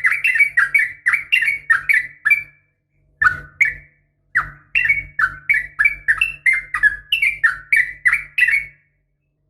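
Yellow-vented bulbul (trucukan) calling in a long, rapid run of sharp chirping notes, about three a second, each one dropping in pitch. There is a short break about three to four seconds in, and the calling stops near the end. It is a female's call, used to lure males into answering.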